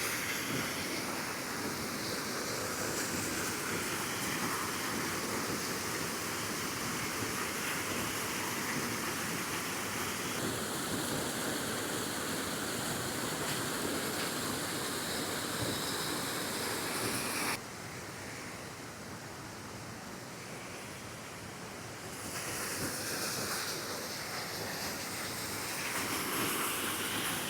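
Small waterfall pouring into a pool: a steady rush of falling water. It turns abruptly quieter about eighteen seconds in and comes back up a few seconds later.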